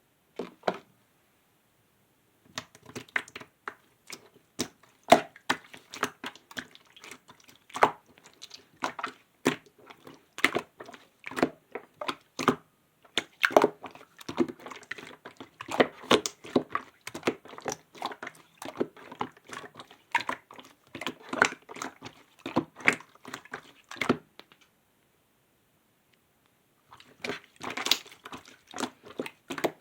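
Clear slime being squeezed and pressed by hand, giving a dense run of sharp wet clicks and pops. The clicking stops twice, briefly near the start and for a few seconds near the end.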